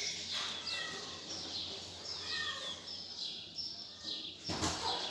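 Birds calling, with many short high chirps that slide down in pitch, repeated over and over, and some lower short notes among them. A brief loud rustling burst comes near the end.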